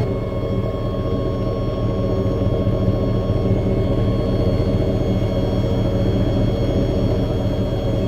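Chevy 5.3L LM7 V8 running through a chambered Cherry Bomb performance muffler, with a steady low exhaust rumble.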